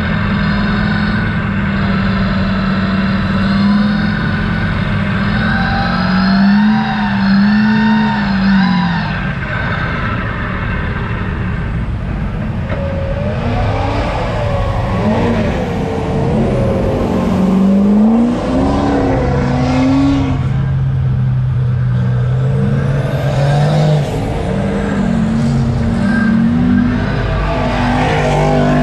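Off-road truck engines running loud, idling at times and revving over and over, the pitch swinging up and down.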